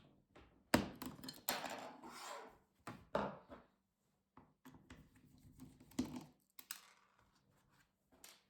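Irregular knocks, clicks and scraping of a plastic laptop case being handled and worked apart: a sharp knock about a second in, a scraping stretch after it, and scattered taps and clicks later on.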